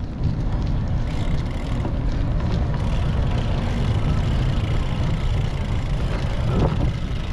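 Steady low rumble of wind buffeting an action camera's microphone, mixed with road noise, while cycling.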